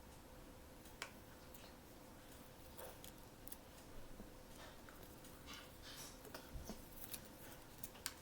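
Faint scattered clicks and soft rustles of blind-box packaging being handled and opened by hand, over a faint steady hum.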